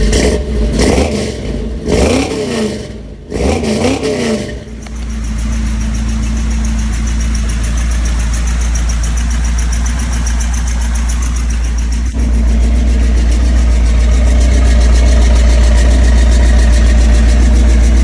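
Chrysler 360 V8 exhaust through long-tube headers and Thrush chambered mufflers, revved in three quick blips and then settling into a steady idle. About twelve seconds in there is a short click, and the idle is a little louder after it.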